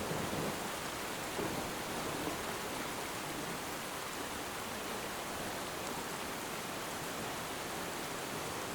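Steady rain, an even dense hiss of falling drops, with a few soft swells in the first couple of seconds.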